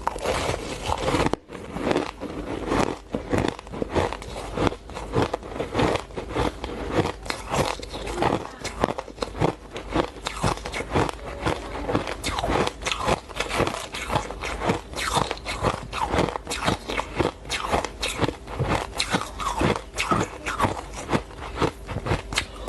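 Close-up chewing and crunching of frozen shaved ice, with dense rapid crunches throughout and a brief pause about a second and a half in.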